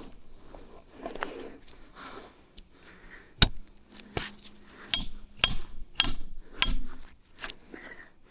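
Seven sharp knocks, struck one after another about half a second to a second apart, over soft rustling and a steady high whine.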